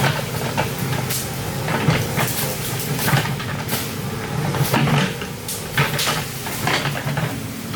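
Excavator engine running steadily, with irregular knocks and clanks, several a second at times, over the engine's hum.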